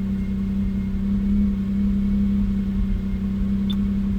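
BMW E39 528i's 2.8-litre straight-six engine idling steadily while it warms up. It will not yet settle into a smooth idle, which the owner puts down to the idle air control valve or possibly a bad O2 sensor.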